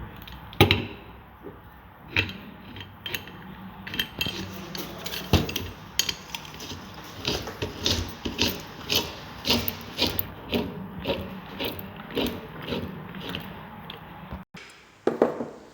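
Hand-tool work fitting the capacitor to a ceiling fan: a screwdriver turning a screw in a run of ratchet-like clicks and scrapes, scattered at first, then an even pace of about two a second through the second half.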